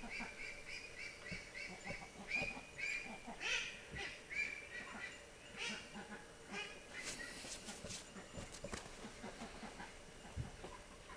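Birds calling in a quick series of short, high notes, several a second, thinning out after about seven seconds.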